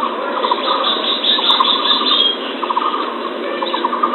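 Bird-lure recording for the common emerald dove (punai tanah): rapid trains of short chattering notes, repeated several times, over a steady hiss in a thin, narrow-band recording.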